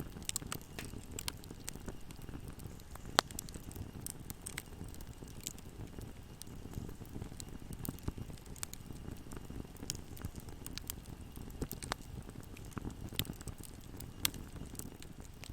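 Wood fire burning in a fireplace: a steady low rumble of flames with irregular crackles and snaps, one sharp pop about three seconds in and another near the end.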